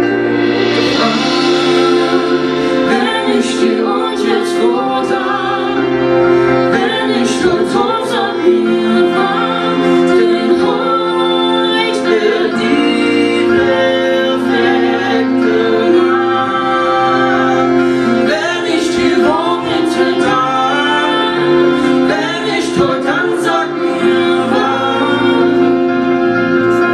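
A live band playing a song, with singing over sustained instrumental accompaniment.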